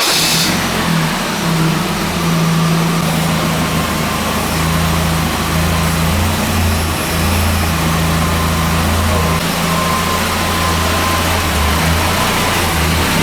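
GAZ Barguzin van's engine idling steadily, a few seconds after being started.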